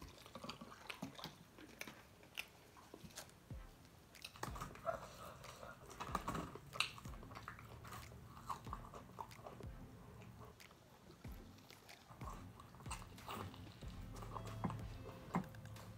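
A person chewing and biting into chicken wings close to the microphone: irregular small clicks of mouth and teeth.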